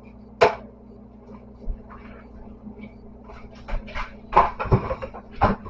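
Kitchen handling noises: a sharp knock about half a second in, then a cluster of clicks and knocks near the end, like a cupboard or containers being handled.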